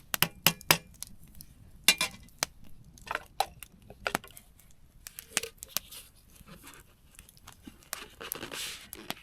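Irregular sharp clicks and clatter mixed with the crinkling and tearing of packaging as snack wrappers and small camp dishes are handled, with a longer stretch of rustling near the end.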